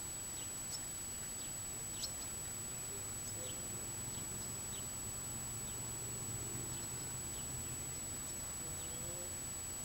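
Faint, brief bird chirps every second or so over a low steady rumble, with a thin steady high whine throughout.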